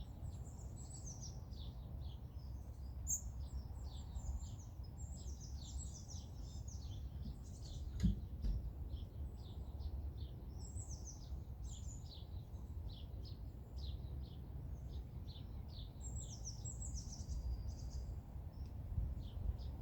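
Small songbirds singing and chirping, a busy run of short, quick high notes and trills, over a steady low rumble of background noise. A brief thump about eight seconds in.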